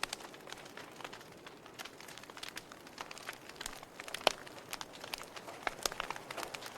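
Wood fire crackling in a fireplace: irregular sharp pops and snaps over a soft hiss, with one louder pop a little past four seconds in.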